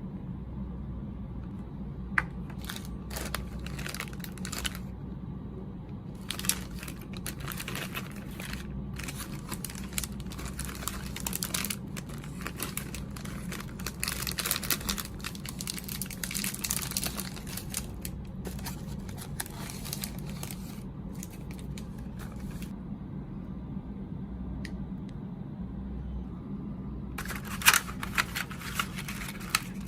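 Plastic snack wrapper crinkling and rustling in irregular bursts as it is handled, with a few sharper crackles near the end, over a low steady hum.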